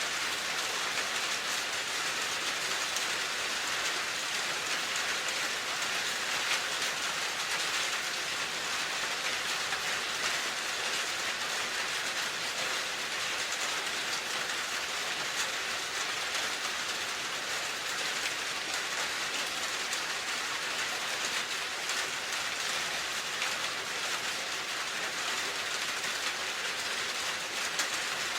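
Steady rain: an even hiss of many drops, with faint ticks of single drops.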